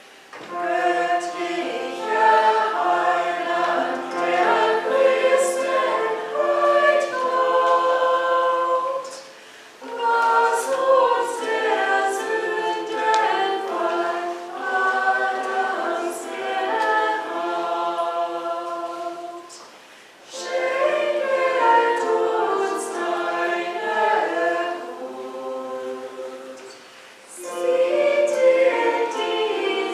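Church choir singing in several-part harmony, in sung phrases separated by short pauses about ten, twenty and twenty-seven seconds in.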